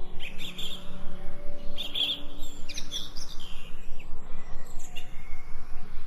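Songbirds chirping and trilling, several short calls overlapping, over a faint low steady hum.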